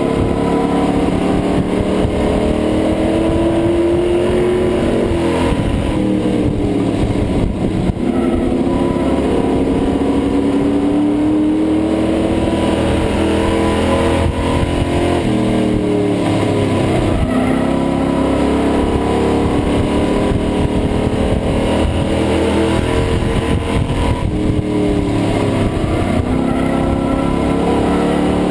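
Race truck engine heard from the in-car camera, running hard at racing speed. Its pitch drops as the driver lifts and climbs back under power about every nine seconds, three times, lap after lap.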